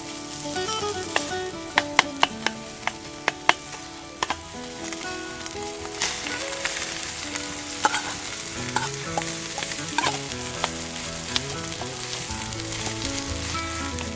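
Rice and corned beef stir-frying in a pan over a campfire, sizzling steadily. A run of sharp clacks from a utensil striking the pan comes in the first few seconds, with a few more later on.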